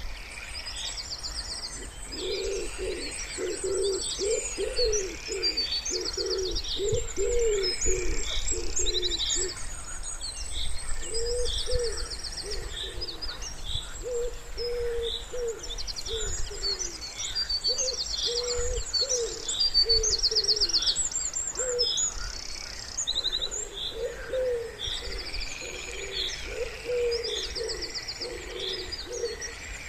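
Wood pigeons cooing in several repeated phrases with short pauses between them, while small songbirds chirp and trill high above throughout.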